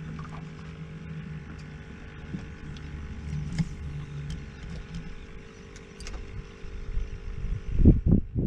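A small boat's motor running steadily, with scattered light clicks. Near the end a low rumble comes in, with a few loud knocks.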